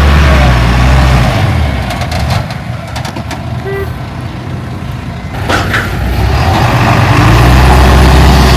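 Heavy diesel engine running loudly, easing off for a few seconds in the middle and then building back up, with a few sharp clicks and a short hiss about five and a half seconds in.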